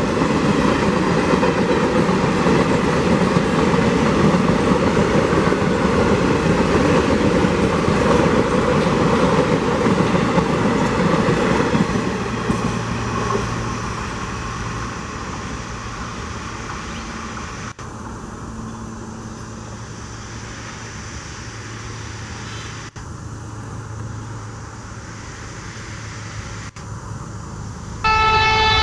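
Passenger train rolling past at speed, a loud steady rumble that fades about twelve seconds in to a quieter steady hum. Right at the end a loud diesel locomotive horn sounds suddenly.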